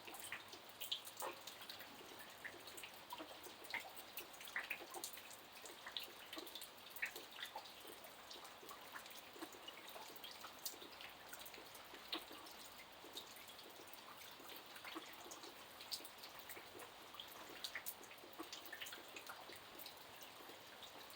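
Quiet rain falling, with many separate drops landing in irregular ticks over a steady soft hiss.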